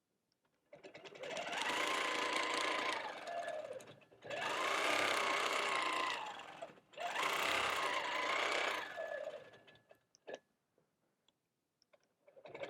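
Long-arm quilting machine stitching in three runs, each speeding up, holding and slowing down again, its motor pitch rising and falling. A few short clicks follow near the end.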